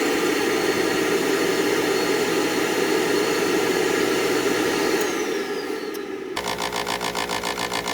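Induced draft motor of a gas furnace running with a loud, noisy racket after its seized shaft was forced free. A falling whine starts near five seconds, and about six seconds in the sound changes abruptly to a regular pulsing hum, about four pulses a second.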